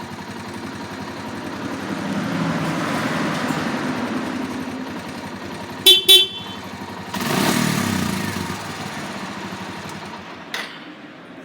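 Suzuki Grasstracker Big Boy's single-cylinder four-stroke engine running, revved up twice, with two short horn beeps about six seconds in between the revs. A click near the end as the engine sound fades.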